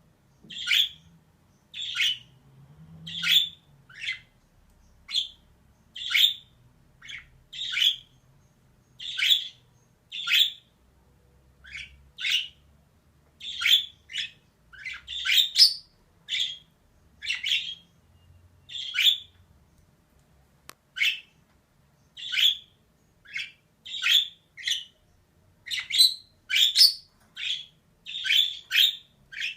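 Female budgerigar giving short, harsh chirping calls, about one a second, coming in quicker pairs towards the end.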